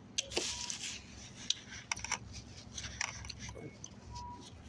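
Close-up eating sounds: chewing salad, with scattered small clicks and scrapes.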